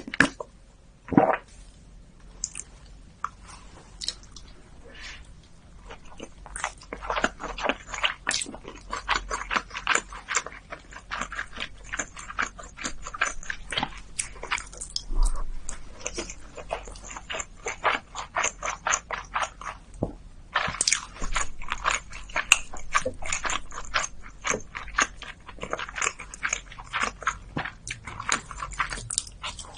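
Close-miked eating sounds: fast, wet chewing and mouth clicks, sparse at first and then dense, with a short pause about two-thirds of the way through.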